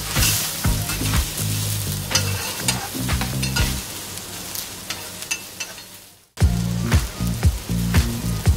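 Cabbage-and-batter okonomiyaki sizzling on a hot teppan griddle as it is turned with metal spatulas. The sizzle is loudest at the start and fades away, then cuts off about six seconds in before sizzling and sharp spatula clicks start again.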